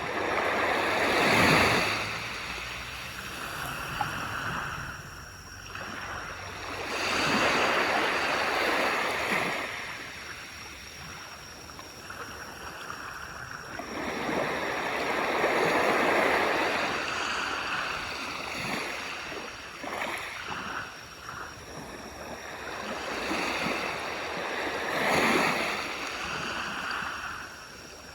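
Sea waves breaking and washing up a beach, four in turn, each swelling into a rush of surf and then drawing back.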